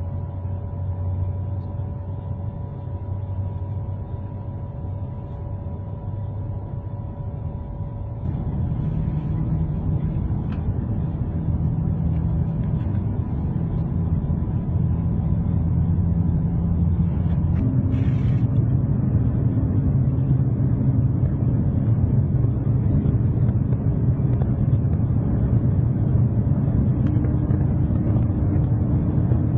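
Steady low rumble of a moving train, with a few held tones over it. It grows louder about eight seconds in.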